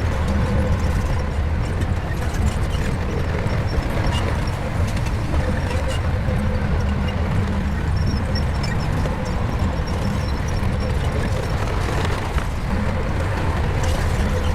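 Shantui bulldozer's diesel engine running steadily under load, a deep even rumble with a few faint clicks above it.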